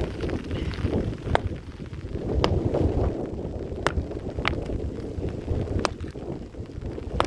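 Wind buffeting the microphone with an uneven low rumble, broken by six sharp ticks at irregular intervals about a second apart.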